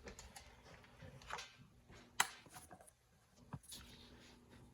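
Faint handling noises, a few light knocks and rustles, with one sharp click about two seconds in.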